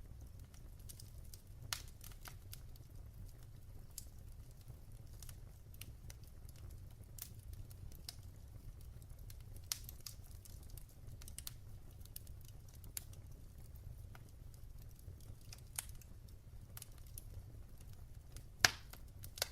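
Wood fire crackling in a fireplace: irregular sharp snaps and pops over a steady low rumble, with one louder pop near the end.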